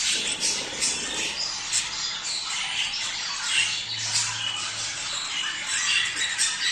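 A flock of budgerigars chattering: many short squawks and chirps overlapping without a break, the warbling chatter of budgies in breeding condition.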